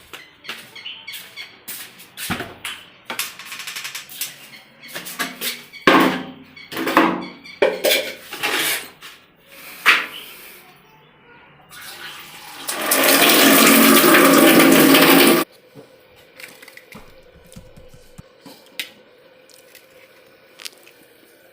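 Water sounds: irregular splashing and knocking, then a loud steady rush of running water for about two and a half seconds past the middle that stops abruptly.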